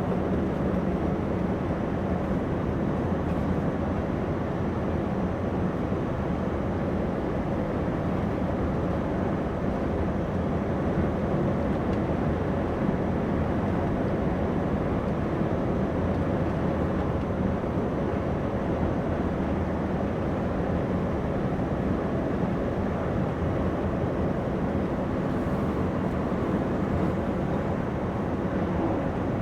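Scania V8 diesel truck engine running steadily while driving, heard from inside the cab, with a steady low hum and road noise.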